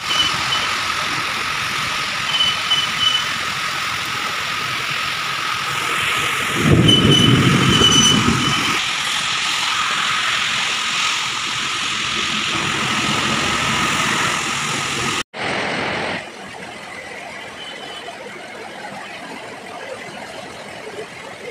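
Heavy rain falling in a steady hiss, with a thin steady whine alongside. A low rumble swells for about two seconds near the middle, and after a sudden cut about two-thirds of the way through, the rain is quieter.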